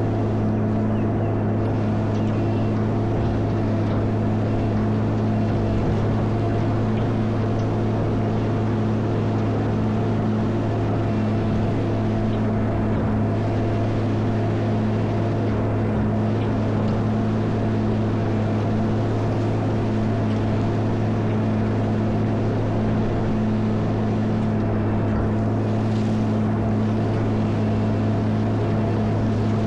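Caterpillar 140M motor grader's diesel engine running at a steady speed, a constant drone that holds the same pitch throughout.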